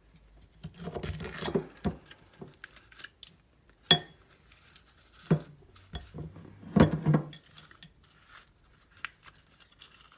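Irregular clinks and knocks of dishes, with soft handling noises, as a fat-and-seed mixture is pushed into a pine cone by hand. The loudest cluster comes about seven seconds in.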